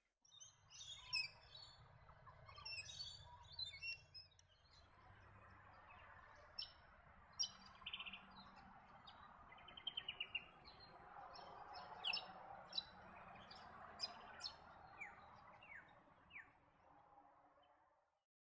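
Small birds calling: faint, scattered sharp chirps and short trills over a low background hiss. The background changes about four and a half seconds in, and the sound fades out near the end.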